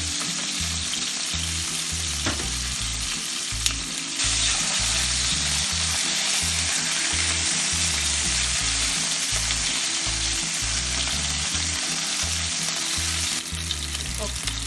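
Chicken breast pieces sizzling as they brown in olive oil in a frying pan. The sizzle gets louder about four seconds in and eases off near the end, with one sharp click a little before that.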